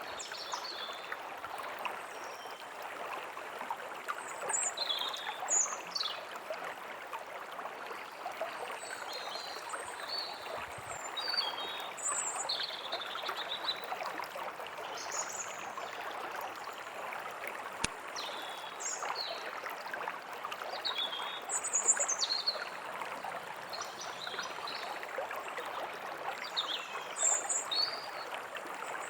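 A small stream running steadily, with songbirds chirping and whistling above it in short calls throughout.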